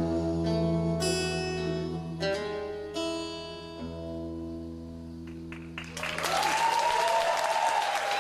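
Closing guitar chords strummed a few times and left to ring and fade as the song ends, then audience applause with a few cheers breaking out about six seconds in.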